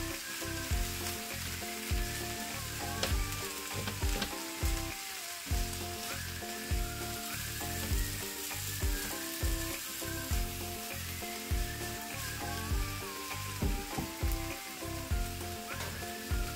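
Scallops, shimeji mushrooms and sliced onion sizzling in a frying pan, stirred with a silicone spatula, under background music with a steady beat.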